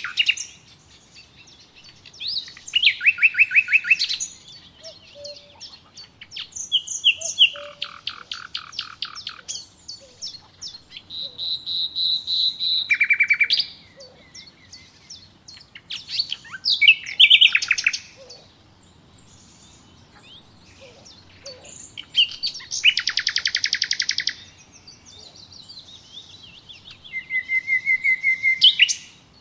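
Songbirds singing in a string of separate phrases a second or two apart: fast trills and rapid runs of repeated high notes, with a held whistled note about halfway through.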